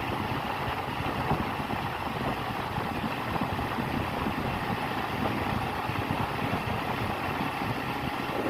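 A vehicle running steadily, a continuous noisy rumble that does not change.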